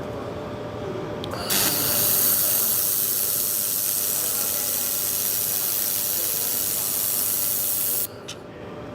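A 2000 W laser welding 3 mm aluminium without filler wire: a loud steady hiss that starts abruptly about a second and a half in and cuts off about eight seconds in, with a click at each start and stop. A steady machine hum runs underneath.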